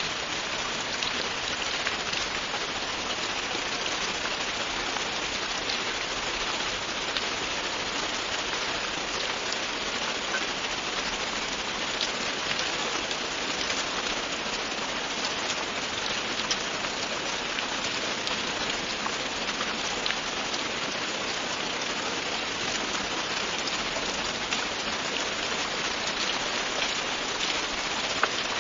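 Steady, continuous rain falling on a surface, an even hiss with scattered individual drops ticking through it.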